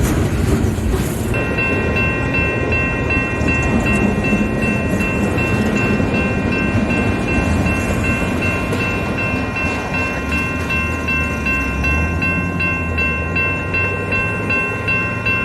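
A train rumbling past. About a second in, a steady ringing of several pitches starts up and keeps pulsing evenly over it.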